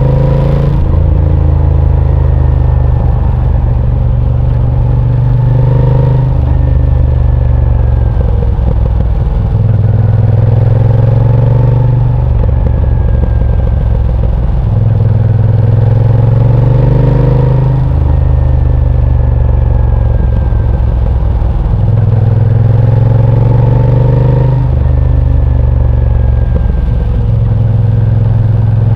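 Moto Guzzi V7 Sport's transverse V-twin engine running under changing throttle. Its pitch climbs and then drops sharply again and again, about every few seconds, as the bike is ridden through corners.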